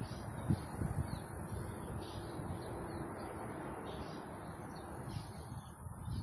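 A small bird chirping over and over, short high notes about twice a second, over a steady low rumble with a couple of soft knocks near the start.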